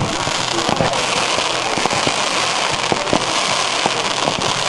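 Fireworks crackling: a steady, dense stream of many small sharp pops, with a few slightly louder cracks scattered through it.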